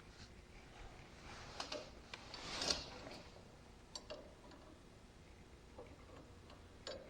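Faint scattered clicks of light handling, with a brief scratchy rub about two and a half seconds in: a marker drawn across the mower's metal lap bar to mark a cut line.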